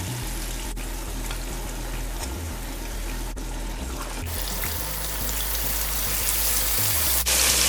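Hassa fish frying in hot oil, a steady crackling sizzle that grows louder after about four seconds and turns sharply louder near the end.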